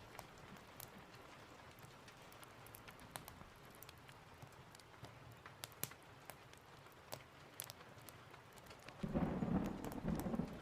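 Steady rain with scattered sharp crackles from a wood fire. About nine seconds in, a loud roll of thunder comes in and is the loudest sound.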